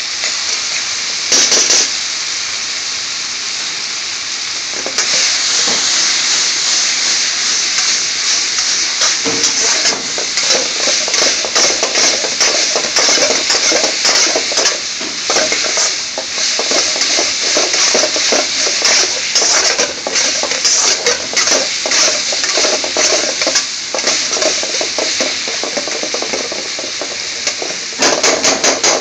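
Sliced onions sizzling in hot oil in a wok while a metal spoon stirs and scrapes them, clinking and knocking against the pan. The sizzle grows louder about five seconds in, with louder clatters about a second in and near the end.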